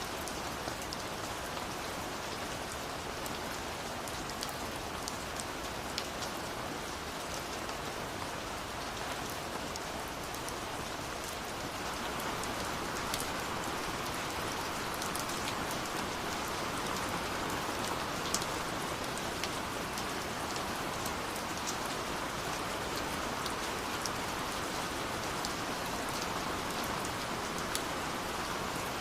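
Steady rushing water of a waterfall, with a wood fire's crackle of scattered sharp pops over it. The water gets slightly louder about twelve seconds in.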